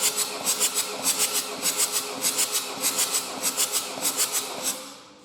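Ford Transit 2.2 TDCi diesel engine being turned over by its starter for a compression test, pulsing about four to five times a second with a steady starter hum underneath. The cranking stops near the end.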